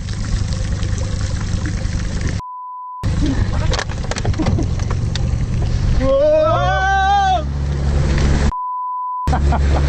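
Two censor bleeps, each a steady single-pitch beep that replaces all other sound for under a second, cutting over loud, steady, rumbling noise; between them a person shouts with a rising then falling voice.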